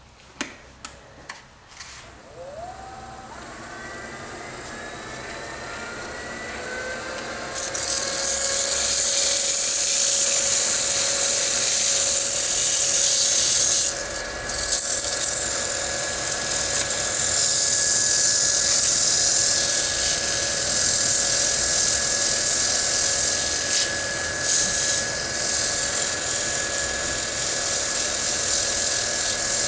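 A few clicks, then a wood lathe motor spins up with a rising whine that settles to a steady pitch. Sandpaper is then pressed against the spinning wooden bowl: a loud, steady hiss that breaks off briefly twice. This is light sanding between coats of finish.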